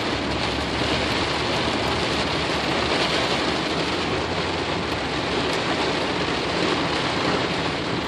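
Heavy rain falling on a car, heard from inside as a steady, even hiss while the car drives slowly through floodwater.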